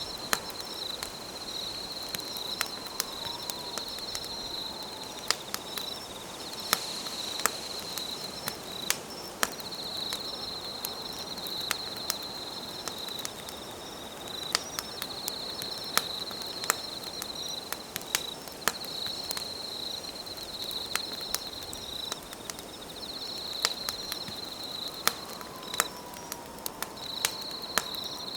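A wood campfire crackling with frequent sharp, irregular pops over a soft hiss, while insects trill in a steady high-pitched chirring that breaks off briefly every second or two.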